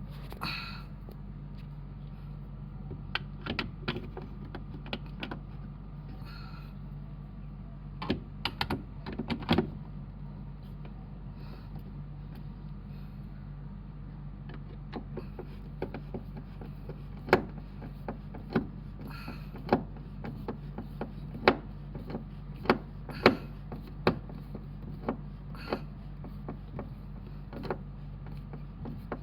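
Irregular sharp clicks and knocks, some in quick clusters, over a steady low hum.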